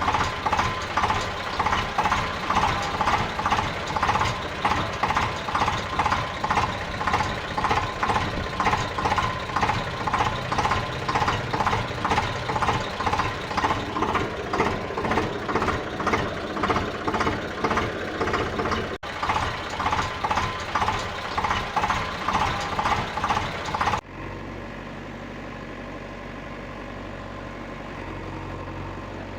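Engine chugging in an even rhythm, a few beats a second, with a brief dropout about two-thirds of the way through. Near the end it cuts off abruptly to a quieter, steady engine hum.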